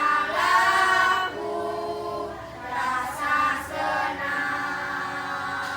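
A choir of young teenage schoolchildren singing together, holding notes in short phrases.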